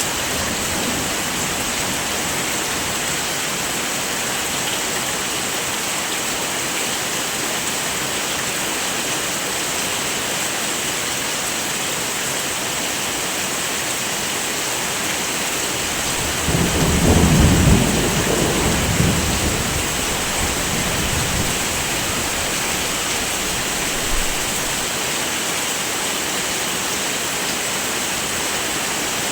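Heavy rain falling steadily, with a low roll of thunder about halfway through that swells for a couple of seconds and then dies away.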